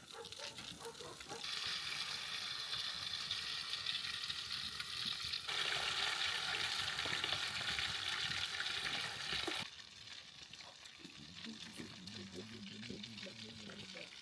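Food frying in a hot pan, with a steady sizzle that gets louder about halfway through and cuts off suddenly about two-thirds of the way in, leaving quieter background sound.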